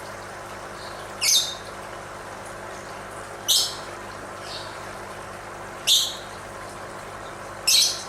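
Lovebird giving four short, high-pitched squawks, about two seconds apart.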